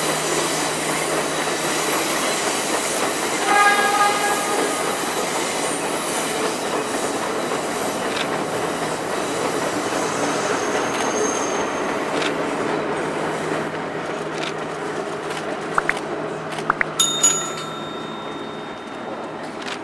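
Sri Lanka Railways S12 diesel multiple unit running across a masonry arch viaduct: a steady rolling rumble of the carriages with a low engine drone, fading slowly as the train draws away. A short horn blast sounds about four seconds in. Near the end come a few sharp clicks and a brief high tone.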